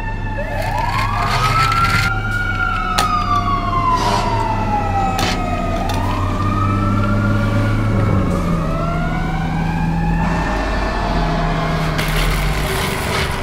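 Fire-engine siren wailing in slow rising and falling sweeps over a low, steady engine hum, with a couple of sharp clicks.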